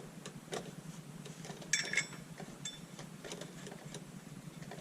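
Scattered light metallic clicks and taps of hand tools and bolts as a flywheel is fitted and bolted to an LS engine's crankshaft, with one brighter ringing metal clink about two seconds in.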